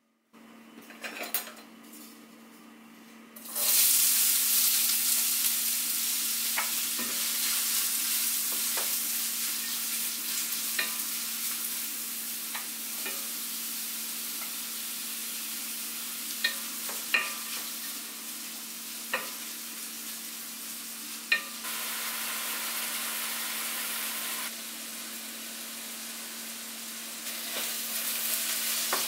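Chopped onion and red bell pepper frying in hot olive oil in a stainless steel pan: a loud, steady sizzle starts suddenly about three and a half seconds in as the vegetables hit the oil. The vegetables are stirred, with a few sharp knocks of utensils against the pan in the second half.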